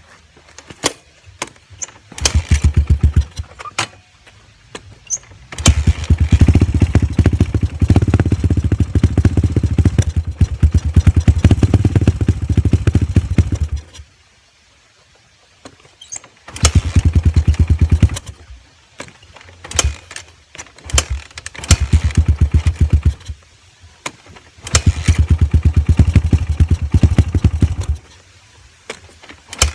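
Dirt bike engine cold-starting: it catches and runs for a few seconds at a time, with the longest run of about eight seconds, then cuts out and is started again several times. Clicks and knocks fall in the gaps between runs.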